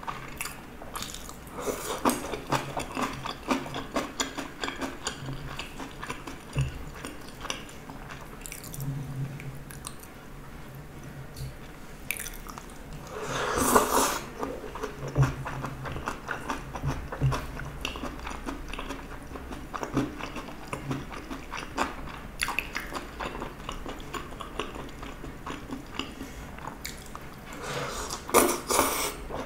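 Close-up chewing and biting of spicy stir-fried gopchang (intestines) with vegetables, with wet mouth sounds and light clicks of chopsticks and a spoon. Louder bursts come about halfway through and again near the end as a spoonful goes into the mouth.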